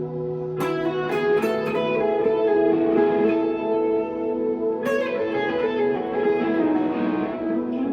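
Electric guitar, a 1963 Fender Telecaster through a tube amp, playing sustained ringing notes, with a run of quickly picked notes about half a second in and another sharp picked attack about five seconds in.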